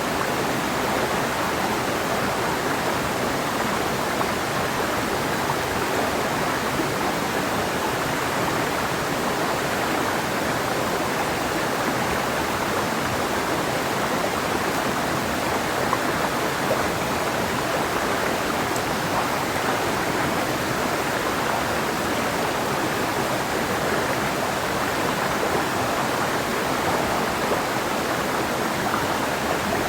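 Clear mountain river flowing over rocks: a steady, even rush of water.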